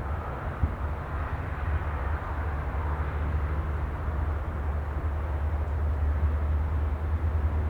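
Sea ambience: a steady low rumble with a soft hiss of surf, with no distinct wave breaks.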